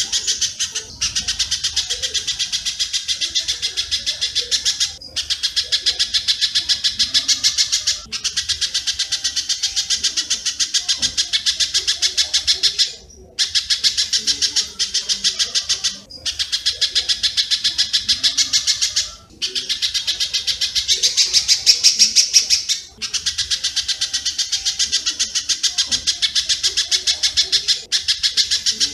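Recorded bird-call track of spiderhunter (pijantung) and swiftlet calls: a dense, rapid run of sharp, high chirps, many a second, in phrases of about three to five seconds broken by brief gaps.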